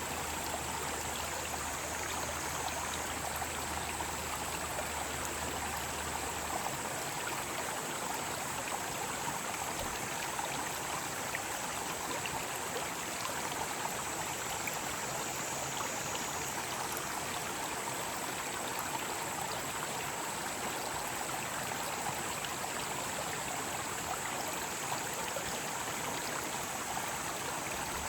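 Mountain stream flowing steadily, with cicadas singing in a continuous high drone over the rush of water.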